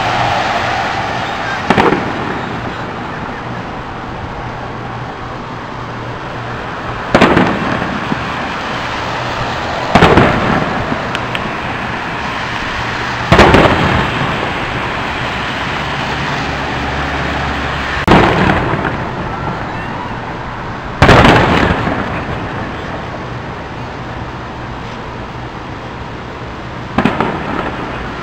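Aerial fireworks shells bursting: seven loud bangs spaced a few seconds apart, each trailing off in a rolling echo.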